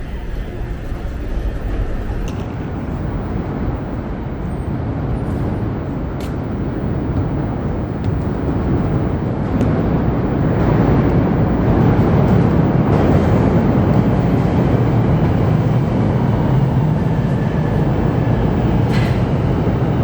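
Chicago 'L' elevated train running, a steady rumble of wheels on rails that grows louder about ten seconds in.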